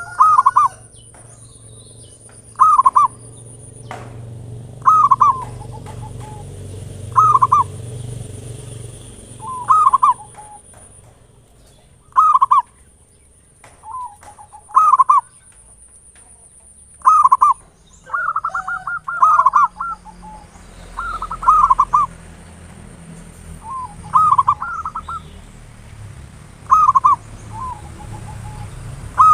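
Zebra dove (perkutut) cooing: short repeated phrases about every two to two and a half seconds, with a denser run of calls about two-thirds of the way in.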